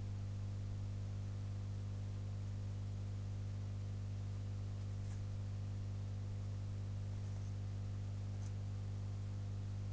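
Steady electrical hum centred low, near 100 Hz, with a few faint, very short high-pitched sounds in the second half.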